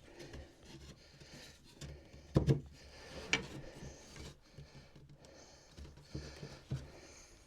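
Wooden spindles knocking and rubbing as they are worked into the holes of a gate rail during a dry fit. The sharpest knock comes about two and a half seconds in, with another a second later and a few lighter ones near the end.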